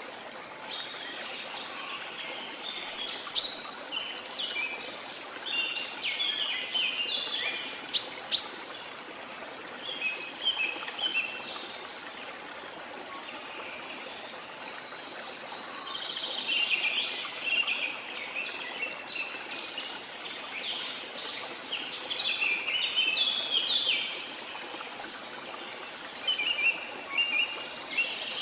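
A steady rush of falling water from a waterfall, with songbirds singing over it in spells of quick, bright notes, some of them sharp and loud.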